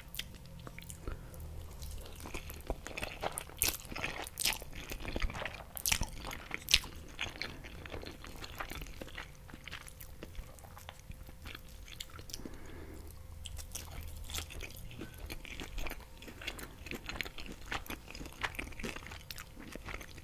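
Close-miked chewing and biting of green spaghetti and fried jack mackerel, with irregular crunching and sharp wet crackles from the mouth.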